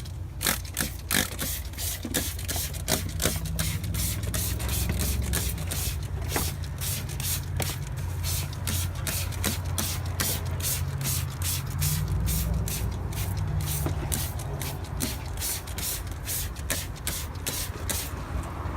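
Hand trigger spray bottle squirting degreaser in quick repeated pumps, about three sprays a second, over a steady low rumble.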